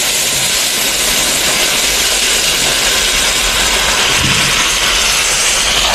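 Hot oil sizzling in a steady, loud hiss as vinegar is splashed into the freshly poured garlic-chili oil sauce.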